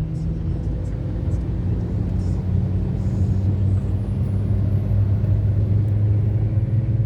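Car engine and road rumble: a steady low drone that swells slightly about halfway through.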